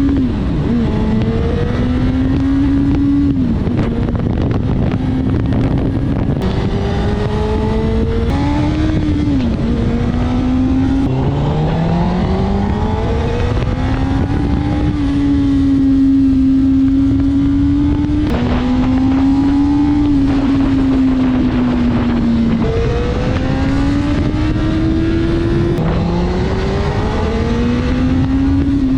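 Motorcycle engine accelerating and changing gear while riding: its note climbs steadily, drops back at each shift about every two to four seconds, and climbs again, over a loud steady rush of noise.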